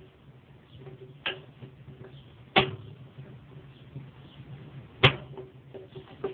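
Three sharp knocks, the last and loudest near the end, with a few lighter clicks between them over a faint steady hum: tools or parts knocking against each other during work on a washing machine.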